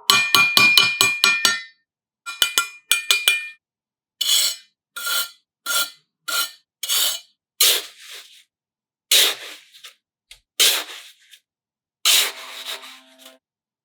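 Two runs of rapid light clinks with a faint ringing tone, then a series of separate rubbing or scraping strokes, about one every two-thirds of a second at first, spacing out and lengthening near the end.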